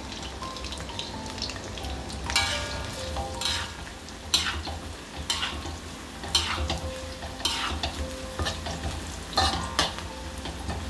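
Onion, garlic, ginger and cekur frying in oil in a wok, sizzling steadily. A spatula scrapes and stirs against the wok in about eight sharp strokes, roughly once a second from about two seconds in.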